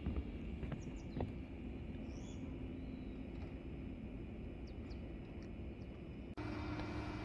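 Quiet forest ambience: a steady low rumble with a few faint bird chirps about five seconds in and a couple of light clicks about a second in. Near the end the background changes abruptly to a steadier hum.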